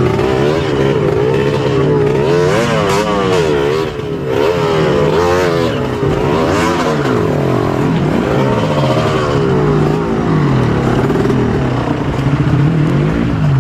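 Trail motorcycle engine revved hard and let off again and again, its pitch rising and falling every second or two.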